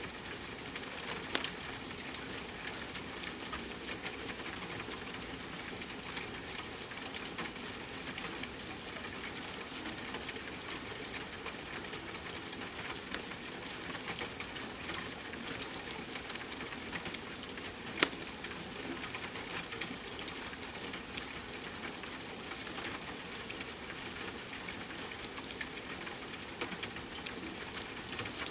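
Steady rain hiss mixed with a crackling wood fire: many small pops throughout and one louder pop about two-thirds of the way through.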